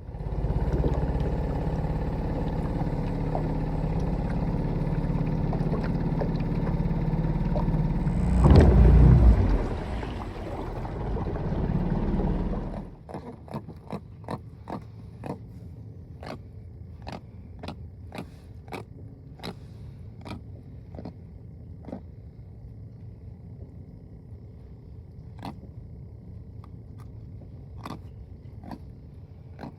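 A motor running steadily, swelling louder briefly about nine seconds in, then cutting off abruptly after about thirteen seconds. After that come quieter scattered clicks and taps.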